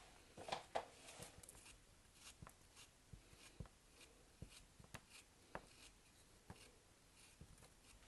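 Faint rustling and scratching of soap packaging being handled, with two louder rustles just under a second in, then scattered light taps and clicks.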